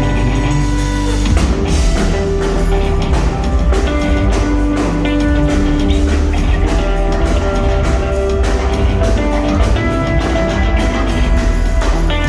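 Rock band playing live: a drum kit beating steadily under guitars and long held notes.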